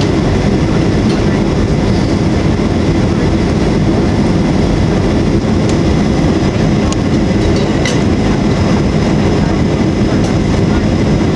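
Steady cabin noise of a Boeing 737-800 in flight on approach: the rumble of its CFM56 engines and rushing airflow as heard from a passenger seat, loud and unbroken, with a few faint ticks over it.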